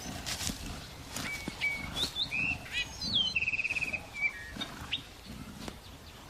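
A bird singing: short whistled notes, then quick rising and falling glides and a fast trill about halfway through, with a few more notes after. Occasional short snaps and soft rustles sound underneath.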